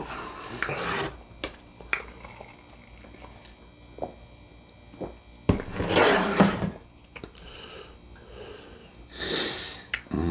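A person eating close to the microphone: chewing and mouth noises in short bursts, with several sharp clicks between them.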